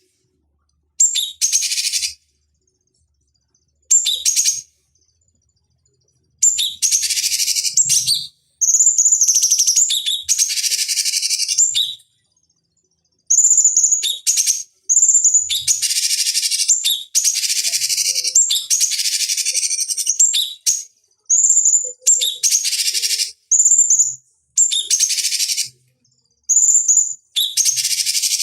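Cucak cungkok songbird singing in a run of short bouts. Each bout opens with a clear high whistled note and breaks into a harsh, rapid chatter, with brief silent gaps between bouts.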